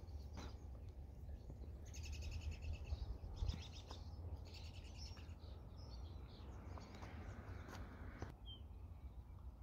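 A songbird singing in three short phrases of rapid repeated high notes, about two to five seconds in, with a faint single chirp near the end, over a steady low rumble.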